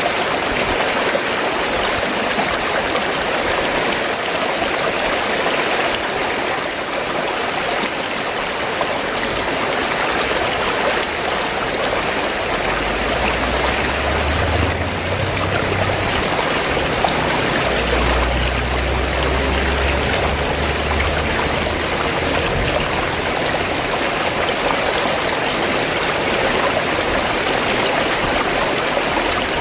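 Fast-flowing water gurgling in a steady, continuous rush. A low rumble comes and goes around the middle.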